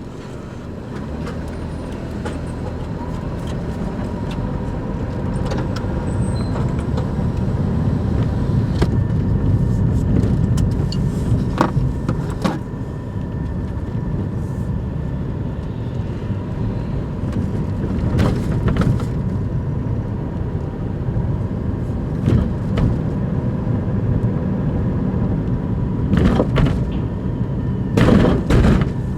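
Daihatsu Move Custom's three-cylinder engine running steadily, growing louder over the first few seconds, with a few sharp knocks, the loudest near the end.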